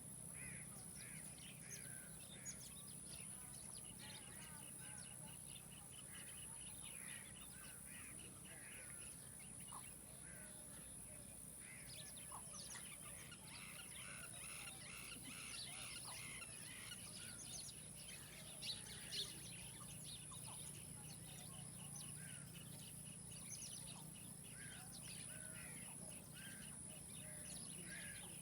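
Outdoor birdsong: many birds chirping and calling in short notes, with a fast, even trill now and then. Beneath it run a steady high hiss and a low hum, and two short sharp ticks come a little past the middle.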